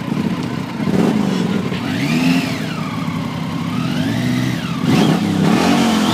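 Triumph motorcycle engine being revved while standing: the revs swell up and fall back slowly twice, then are blipped sharply a couple of times near the end.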